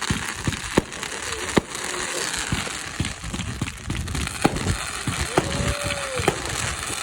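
Fireworks going off: many sharp bangs, some single and some in quick runs, over a continuous crackling hiss. About five and a half seconds in, a short held tone rises briefly and falls away.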